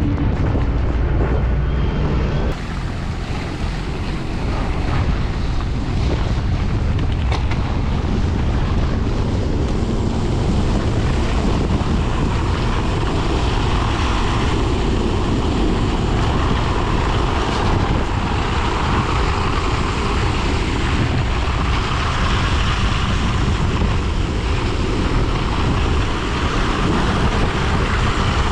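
Wind rushing over a helmet-mounted camera microphone while cycling at speed, a steady loud roar with road noise underneath.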